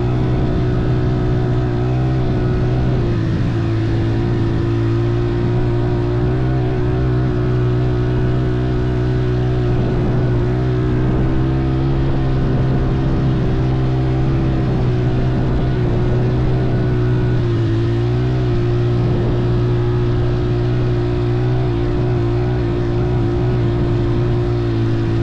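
Motor vehicle engine, most likely the off-road motorcycle being ridden, running at a steady speed with an even drone that barely changes pitch.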